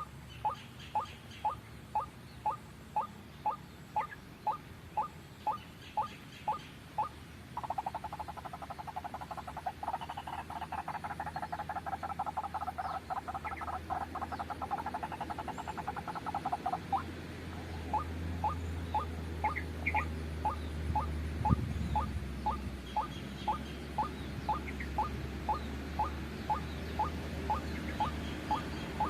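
White-breasted waterhen calling: a monotonous series of short rising notes, about two and a half a second. From about 7 s to 17 s it changes to a faster, denser run of notes, then the steady repeated notes resume. A low hum sits underneath from about 8 s on.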